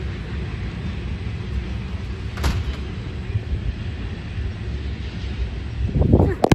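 Freight train rolling past with a steady low rumble, a sharp knock about two and a half seconds in. The sound cuts off suddenly at the end.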